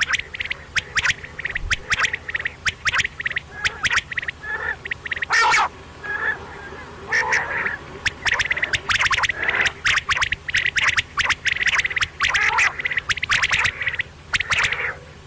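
Quail calling: a dense run of short, sharp repeated call notes, many to the second, with brief pauses between bursts.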